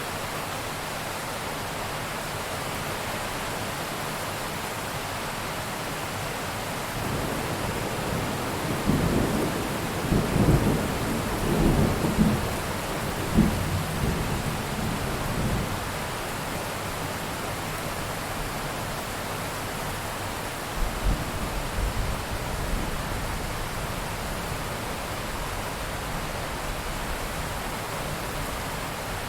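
Steady heavy rain with a long roll of thunder that swells and rumbles through the middle, followed by a second, shorter rumble.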